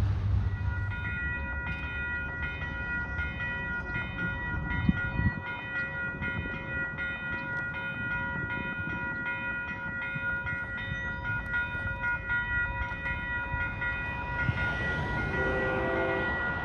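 Train rumbling past on the rails, the rumble stopping about five seconds in. A steady high ringing tone runs on under and after it.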